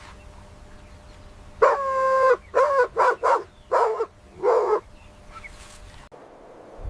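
An animal calling: one long pitched call, then five shorter calls in quick succession.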